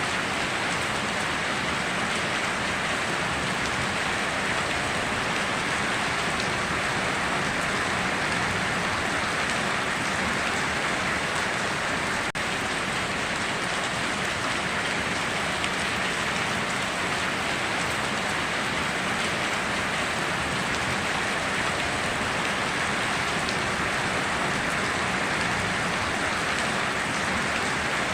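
Steady rainstorm: rain falling and pattering on surfaces as an even, unbroken hiss with no thunder.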